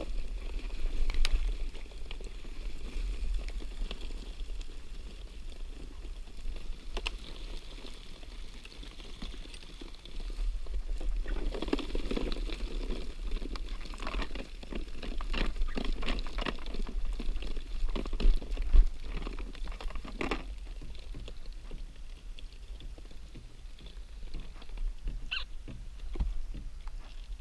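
Water pattering and splashing in irregular bursts, busiest around the middle.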